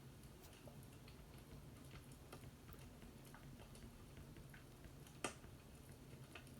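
Faint fireplace crackling: scattered, irregular small pops over a low steady hum, with one louder pop about five seconds in.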